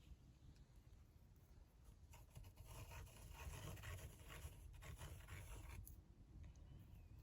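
Faint scratching, starting about two seconds in and stopping suddenly near the end, against near silence.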